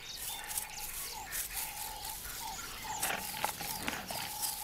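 Short animal calls held at one steady pitch, repeating about twice a second, with quick high chirps and rustling crackles among them.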